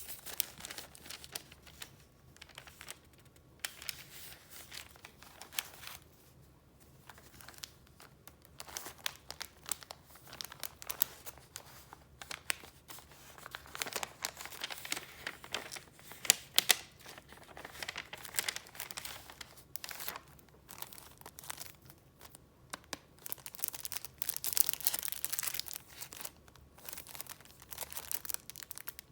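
Paper being handled and leafed through: irregular rustling and crinkling with sharp little crackles, and a longer stretch of rustling near the end.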